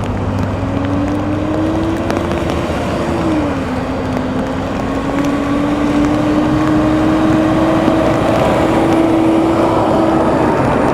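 Road traffic: a steady noise of engines and tyres, with one engine's hum that climbs, dips in pitch about three and a half seconds in, then slowly rises again.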